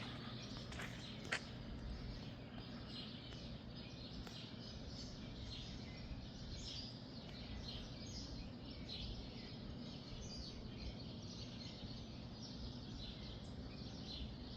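Faint outdoor ambience: small birds chirping here and there over a steady low hum and rumble. A single sharp click a little over a second in.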